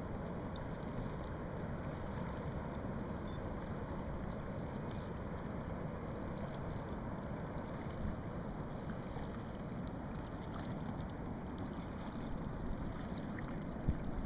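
Steady rushing noise of wind and water, with a few faint ticks scattered through it.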